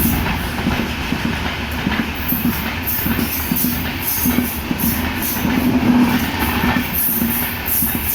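Passenger train hauled by a WAP-7 electric locomotive running through a station at speed without stopping: a steady loud rumble of wheels on rail with a quick clickety-clack over the rail joints.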